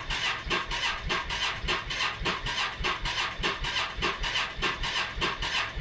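Motorcycle electric starter cranking the engine slowly, in even chugs about five a second, without it catching: the slow cranking is the sign of a nearly flat battery.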